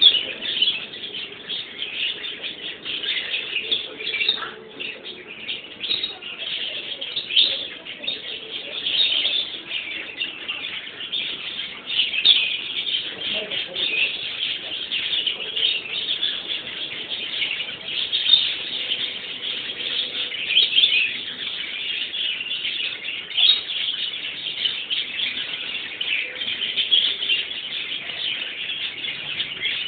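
Small birds chirping constantly.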